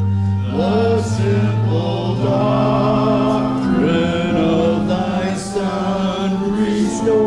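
Congregation singing a hymn in held notes over a sustained instrumental accompaniment.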